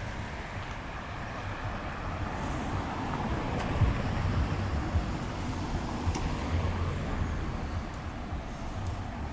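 Street traffic noise: a steady low rumble of passing vehicles, swelling about a third of the way in as something passes close, then easing off.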